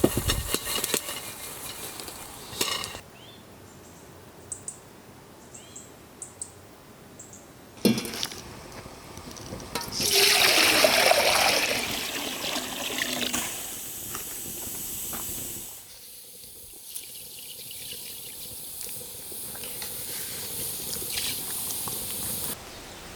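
Water pouring and splashing, loudest about ten seconds in, with scattered clicks and a sharp knock before it.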